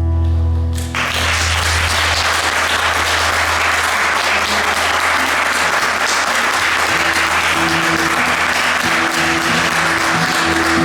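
The song's last held chord dies away and, about a second in, an audience breaks into steady applause; in the second half, a few held low notes from the band's instruments sound beneath the clapping.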